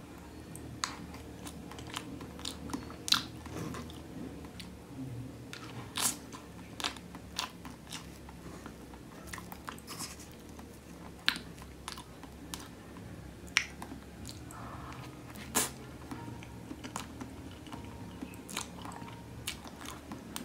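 Close-miked chewing of soft mango graham cake, refrigerator-softened graham crackers layered with cream, with many short, sharp clicks scattered throughout.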